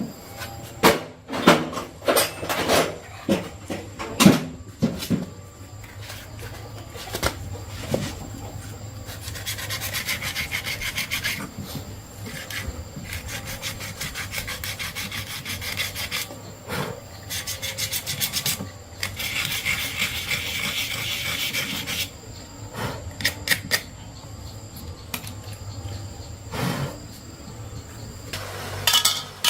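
Hand-tool work: a series of knocks and clatter, then two spells of rasping, scraping strokes of a few seconds each, over a low steady hum.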